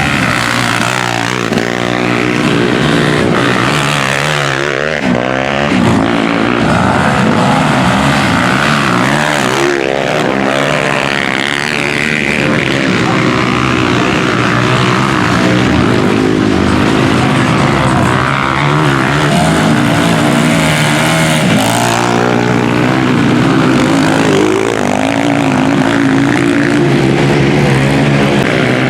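Several Honda CG single-cylinder motorcycles racing together, their engines revving up and down through the gears. The overlapping engine notes rise and fall as bikes sweep past.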